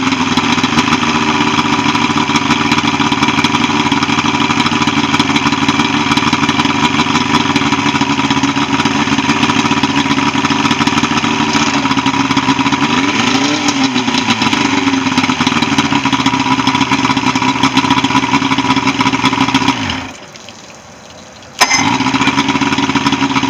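Evinrude 75 HP outboard motor running steadily, back in running order after a no-start repair and routine service. About 13 seconds in it revs up briefly and settles back. Near the end the sound cuts out for about a second and a half, then comes back abruptly.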